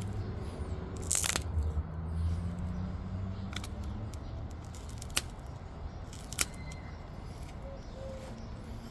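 Obsidian being pressure-flaked: a few sharp clicks as small flakes snap off the edge, spaced a second or more apart, over a low rumble that fades about halfway through.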